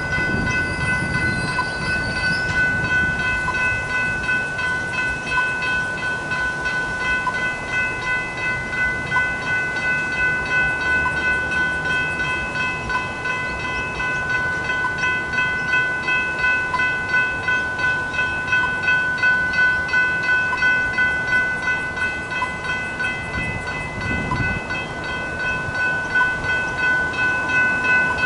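Level crossing warning bells ringing continuously with a regular, rapid repeated strike over a steady ringing tone. A low rumble rises briefly near the start and again about 24 seconds in.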